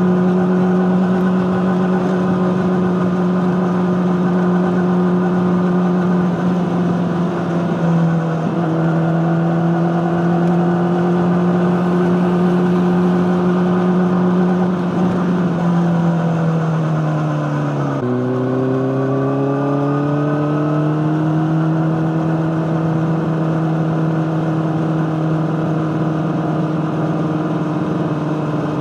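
Honda CBR600RR inline-four engine with an Akrapovic exhaust, running at a steady mid-range engine speed. The pitch eases down in the middle, drops sharply about two-thirds of the way through, then climbs slowly again.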